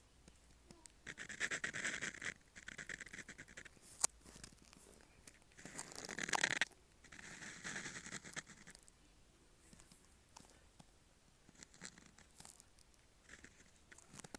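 Dip pen nib scratching across paper in a few strokes of a second or so each, with a sharp tick about four seconds in. It goes quieter after about nine seconds, with only a few light ticks.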